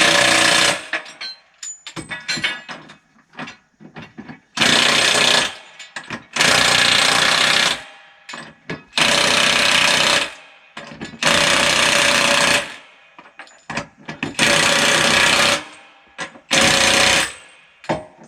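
Milwaukee 1-inch cordless impact wrench hammering lug nuts on a skidder's dual wheel, in about seven bursts of a second or so each, with small clanks in the gaps between.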